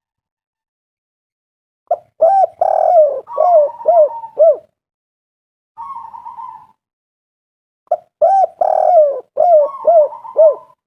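Spotted dove (tekukur) cooing: two song phrases of short hooked coos with a rolling note in the middle, a quieter rolling note between the phrases.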